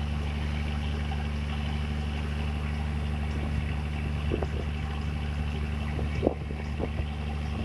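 Boat engine running at a steady speed, a low even drone, with a few short knocks in the second half.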